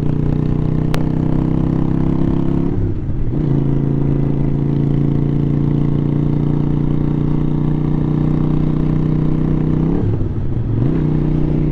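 Twin-carburettor motorcycle engine running at a steady cruise, its pitch dipping briefly and coming back up twice, about three seconds in and again about ten seconds in. There is a single sharp click about a second in.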